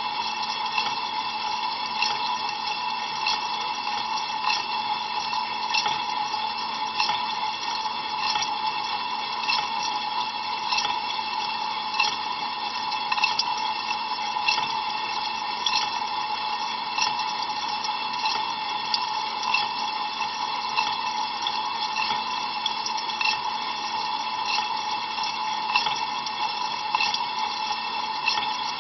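Inside an Ariston LV 46 A IX dishwasher on a cold rinse: water jets from the spray arms steadily spraying and splashing against the tub and racks, with frequent sharper splashes and a constant hum underneath.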